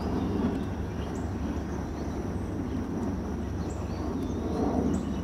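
Steady low rumble with outdoor background noise and a few faint high chirps.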